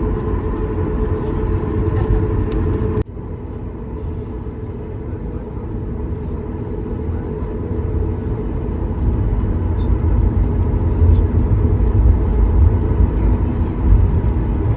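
Boeing 737 MAX 8 airliner noise: a steady low rumble with a thin steady hum. It drops abruptly about three seconds in, then grows slowly louder.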